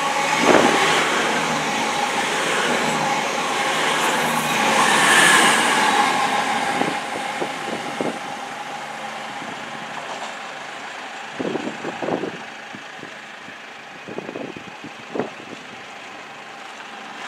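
CrossCountry Voyager diesel multiple unit running through the station, with its underfloor diesel engines and a steady hum, loudest for the first six seconds, then fading as it moves away. A few short knocks come in the second half.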